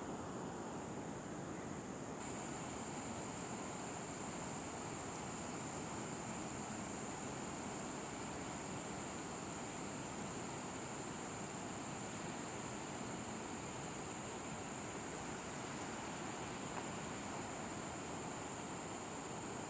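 Steady outdoor noise with a steady high-pitched buzz that gets louder suddenly about two seconds in.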